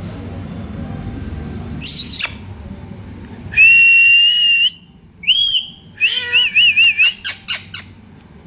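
Pet parrot calling: a falling squawk, then a long steady whistle, a few arching chirps, a warbling trill and a quick run of short chirps.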